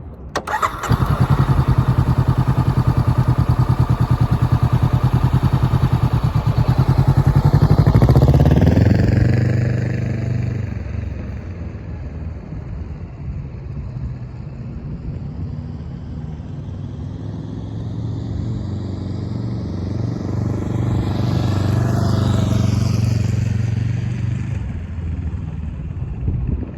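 Honda CB500X parallel-twin motorcycle engine starting about a second in and running steadily, then rising in pitch as the bike pulls away around eight seconds in and fading. Later the bike comes back and passes by, swelling and falling away near the end.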